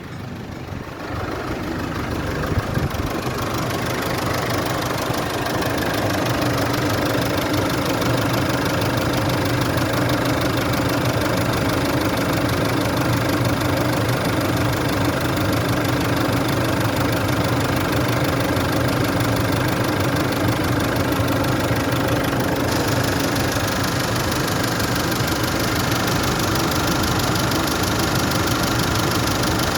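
Holden Colorado RG's 2.8-litre four-cylinder turbo diesel engine idling steadily.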